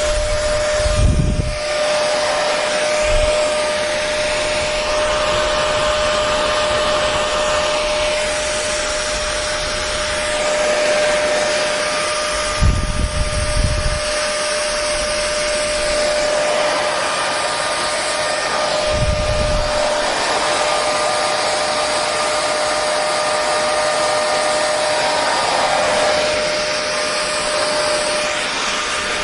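Hair dryer blowing continuously: a steady rush of air with a constant motor hum. A few brief low rumbles come through, about a second in, near 13 seconds and near 19 seconds.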